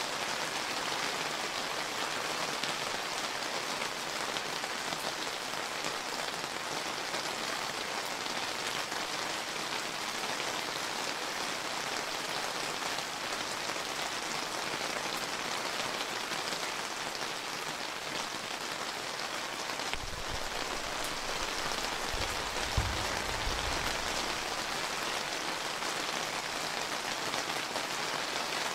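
Warm summer rain falling steadily, an even hiss of many drops. About two-thirds of the way in, a low rumble lasts a few seconds, with one sharp knock in it.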